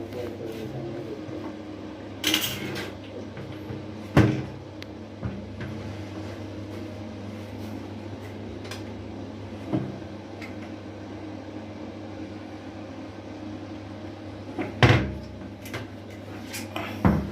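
Handling sounds around a top-load washing machine: about five sharp knocks and clatters spaced out over a steady low hum.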